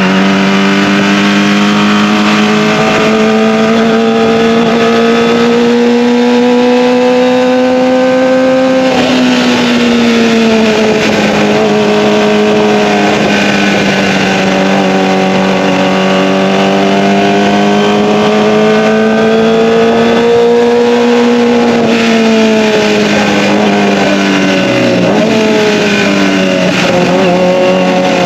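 Kawasaki ZX-25R's inline-four engine through an Akrapovic Evolution exhaust while riding, a loud, steady engine note. The pitch creeps up slowly, drops sharply about nine seconds in, then climbs again and falls off a few times near the end as the throttle eases.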